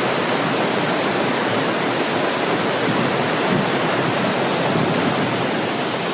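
Waterfall rushing close by: a loud, steady wash of falling water with no breaks.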